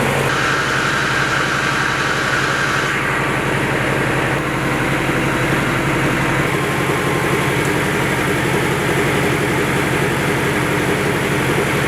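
Generator engine running steadily with a rapid even pulsing, powering a repaired 22 kW concrete-mixer electric motor on a test run after a current-leakage repair. A higher whine joins for the first few seconds.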